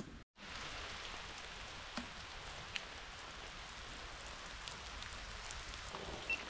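Steady hiss of rain falling, with a few light, scattered drop ticks, starting abruptly a moment in.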